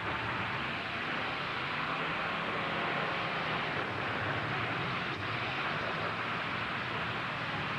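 Engines of demolition derby trucks running together in a steady, dense din.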